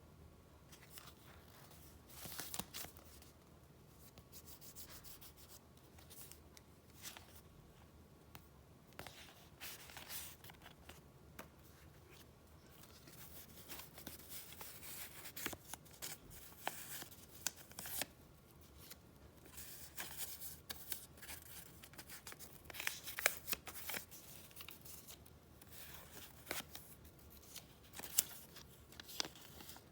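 Paper being handled by hand: irregular rustling, sliding and crinkling with small sharp crackles, busier in the second half.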